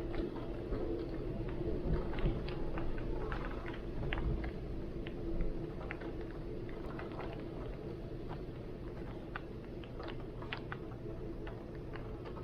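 Rain falling in heavy wind, with irregular drip and patter ticks and a low wind rumble that swells twice in the first few seconds.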